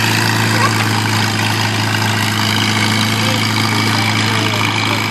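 Vehicle engine idling steadily with an even, unchanging hum.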